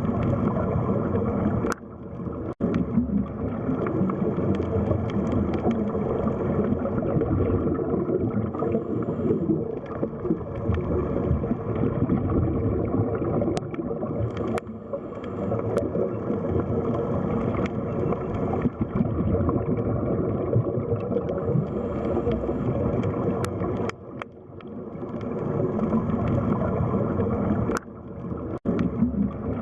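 Underwater sea ambience: a steady, low, gurgling wash of water, broken by a few brief sudden dropouts, about two seconds in and twice near the end.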